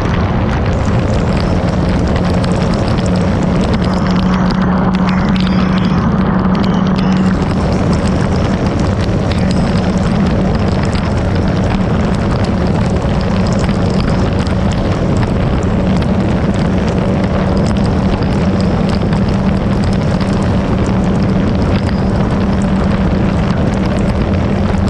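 Motorcycle engine running at a steady speed, a constant loud drone with a steady low hum that does not rise or fall.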